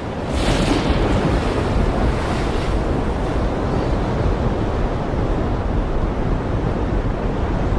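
Caspian Sea waves washing onto the shore: one wave breaks about half a second in, its hissing wash fading over the next few seconds. Wind rumbles on the microphone throughout.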